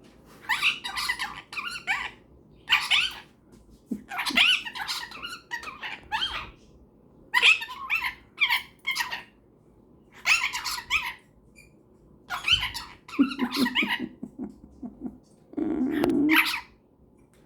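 A cockatiel and a superb parrot chattering and calling back and forth in a dozen or so short, shrill bouts with brief pauses between them. Lower, throatier calls come in near the end.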